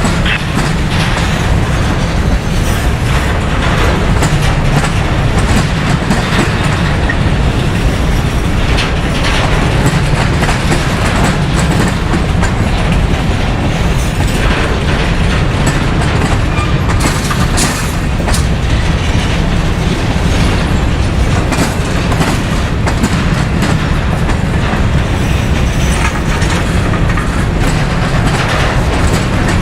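A train's cars rolling past, loud and steady, with a heavy rumble and wheels clicking over the rail joints.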